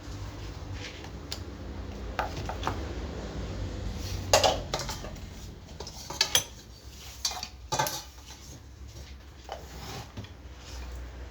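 Metal tools and parts clinking and clattering as they are handled: a string of sharp knocks, loudest about four seconds in, over a low steady hum.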